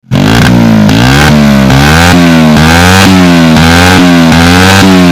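Honda Supra X 100 single-cylinder four-stroke engine through a Kawahara aftermarket exhaust, very loud, its pitch rising and falling about twice a second with repeated throttle blips.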